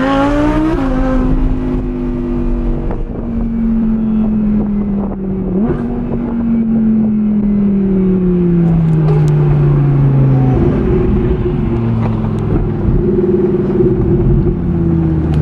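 A car engine running under changing load. Its pitch climbs, drops sharply under a second in, then slides slowly down over several seconds; it jumps up again about six seconds in and falls away, with a further rise and fall near the end.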